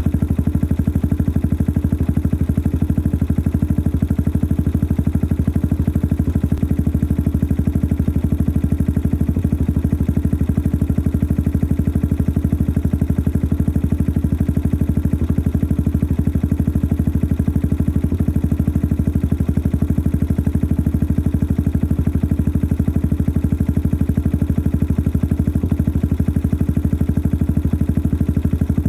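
Yamaha XT 600 43F single-cylinder four-stroke engine idling steadily through a modified stock exhaust, an even, unbroken exhaust beat. The engine is noisy, with mechanical clatter over the exhaust.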